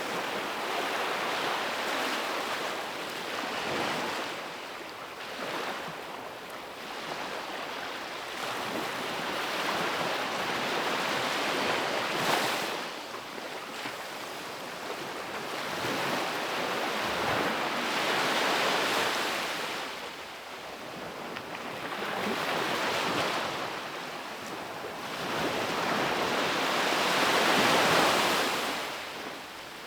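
Ocean waves breaking and washing up a beach, swelling and fading in slow surges every few seconds, with the loudest near the end.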